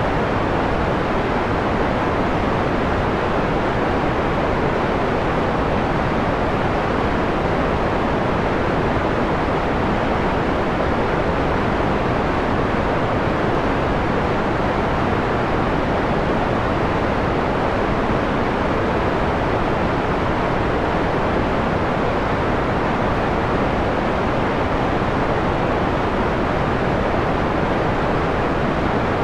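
Steady electronically generated white noise, dimmed to a mellow, muffled tone with the high hiss rolled off. It holds even, with no change.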